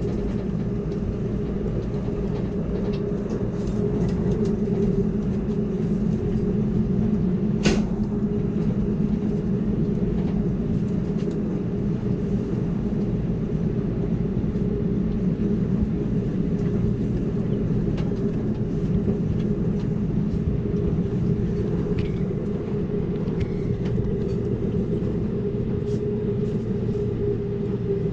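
Amtrak Cascades passenger train running at speed: a steady low rumble of wheels on the rails, heard from inside the car. One sharp click sounds about eight seconds in.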